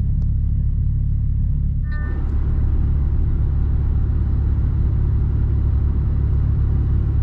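Steady low engine hum heard inside a truck cab. About two seconds in, a short beep sounds and a rougher rushing noise rises and stays.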